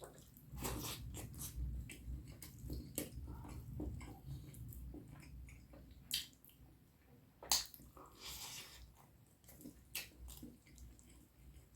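Close-miked chewing and biting of a person eating curry with rice, heard as irregular clicks and mouth smacks. The sharpest click comes about seven and a half seconds in.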